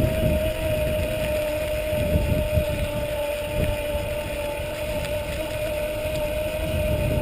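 Electric bike motor whining at a steady pitch under power, the pitch sagging slightly and then rising a little near the end, with low wind rumble on the microphone.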